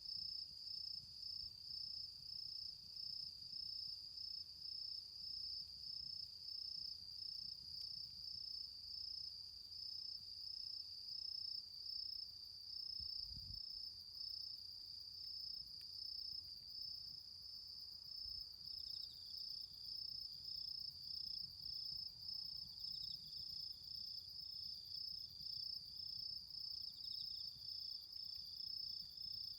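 Autumn insects chirping in a steady, high-pitched pulsing trill, about one to two pulses a second. A second, lower-pitched insect joins on and off about two-thirds of the way through.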